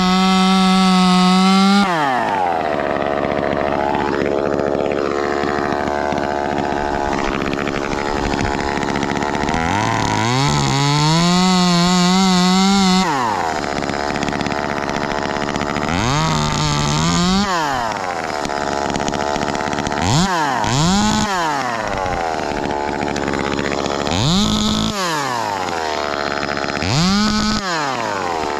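Ported Echo 2511T two-stroke top-handle chainsaw revving to full throttle and dropping back to idle, cutting limbs. It holds full revs for about two seconds at the start and about three seconds near the middle, then gives four short blips of throttle toward the end.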